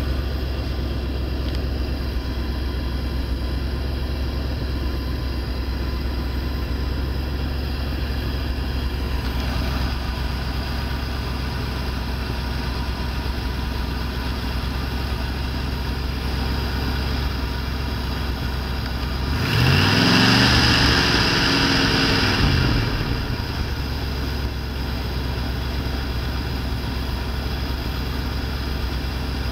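1985 Chevrolet 350 small-block V8 idling steadily, blipped once about two-thirds of the way through: its pitch rises and falls over about three seconds before it settles back to idle. A second rev begins at the very end.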